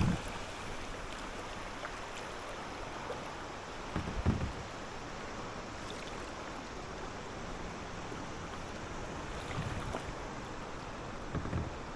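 Kayak paddling on a calm river: a steady rush of water, broken by a few dull low thumps.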